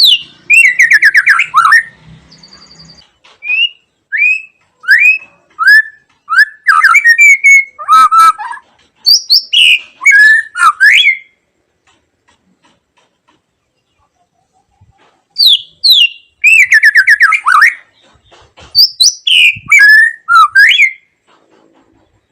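White-rumped shama singing: loud, varied phrases of clear whistles, sweeping notes and rapid warbled trills. The song breaks off for about four seconds midway, then starts up again.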